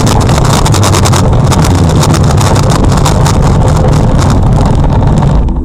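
Loud, steady vehicle engine and road noise with wind buffeting the microphone, cutting off suddenly near the end.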